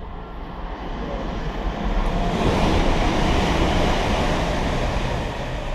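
A train passing through the station: a rush of rail noise that swells to a peak about three seconds in, then begins to fade.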